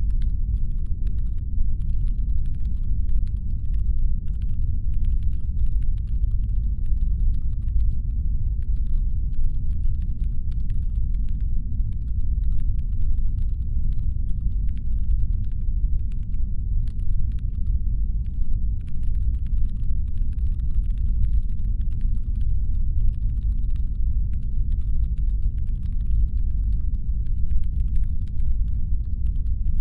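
Steady deep brown-noise rumble standing in for a spaceship's engine hum. Faint, irregular, quick clicking runs through it in the upper range.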